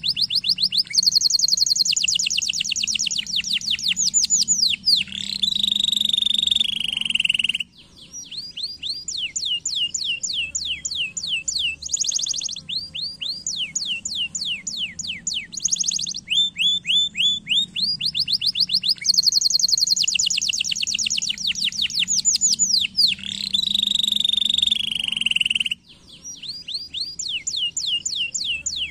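Domestic canary singing a long song of rapid trills, fast runs of identical high chirps that switch every second or two to a new note type, some falling sweeps and some steadier buzzing rolls. The song breaks off briefly about eight seconds in and again near the end.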